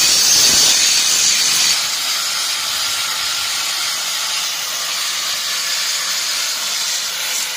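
Steady hissing noise, louder for the first couple of seconds and then even.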